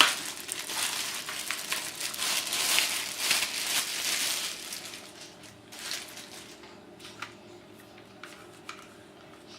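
Packaging rustling and crinkling as the kettle's base stand is handled and taken out. It is dense for about five seconds, then gives way to a few light clicks and taps.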